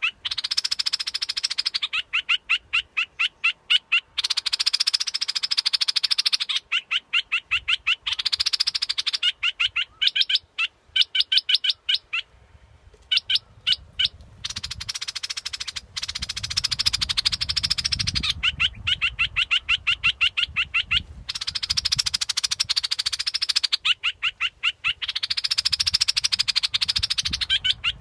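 Looped call of a bulbul used as a decoy lure: quick runs of sharp, evenly spaced notes, about ten a second, alternating with harsh, buzzy chattering phrases of a second or two, repeating over and over.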